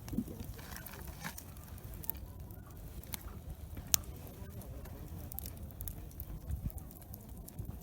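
Wood campfire crackling, with scattered sharp pops, the sharpest about four seconds in, over a low steady background rumble.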